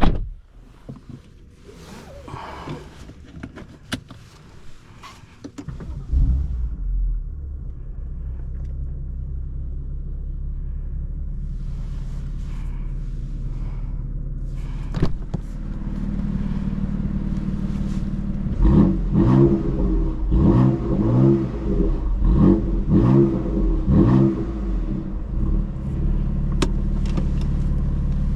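BMW M3 F80's twin-turbo inline-six (S55) with M Performance exhaust: after a few quiet clicks and knocks, it starts about six seconds in with a loud flare, settles into a steady idle, then is revved in about half a dozen quick blips in the second half before falling back to idle.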